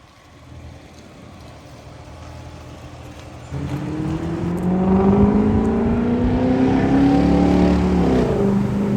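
Audi A8 V8 running through a custom 3-inch true dual exhaust with an X-pipe. It rumbles low at first, then accelerates hard from about three and a half seconds in, its note climbing steadily. Near the end the pitch drops, as with an upshift or the throttle easing off.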